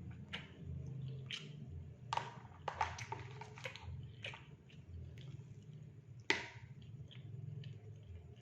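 Close-up eating sounds: chewing of fried rice and fried fish, with irregular wet mouth clicks and smacks and a sharp click about six seconds in.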